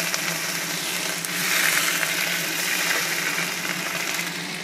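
Hot mustard oil sizzling in a kadai with whole spices frying in it, swelling louder about a second and a half in as onion paste goes into the oil.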